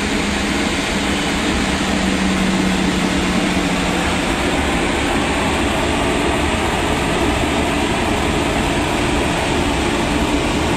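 The CFM56-3 turbofan of a Boeing 737-300 running steadily after its start, a loud even rush with a low hum that fades out about four seconds in.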